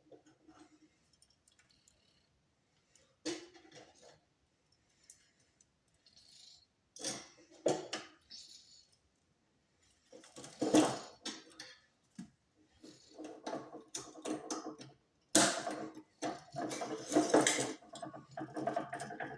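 Hard objects being handled: a few separate clicks and knocks, then from about halfway a denser, louder run of clattering and rattling.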